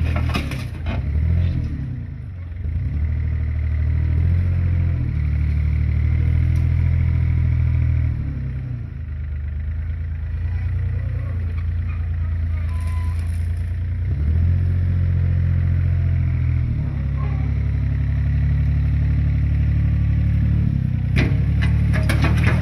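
Heavy construction-machine engine running, its revs rising and falling. There are clattering knocks about a second in and again near the end.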